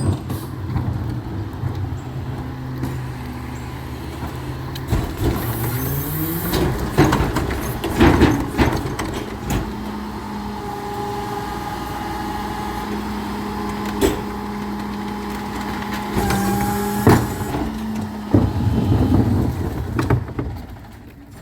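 Recycling truck's diesel engine speeding up and holding a higher steady note while its hydraulics work, with several sharp clanks and bangs, then dropping back to idle near the end.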